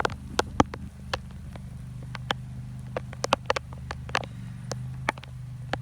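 A lawn mower engine running steadily in the background, with irregular sharp taps scattered over it.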